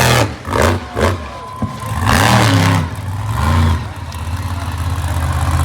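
Monster truck engine revving hard in repeated bursts, its pitch rising and falling: several quick blips in the first second, then longer pulls about two and three and a half seconds in.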